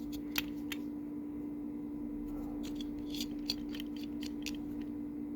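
Scattered light clicks and taps from small die-cast toy trucks being handled, with a cluster of them in the middle, over a steady low hum.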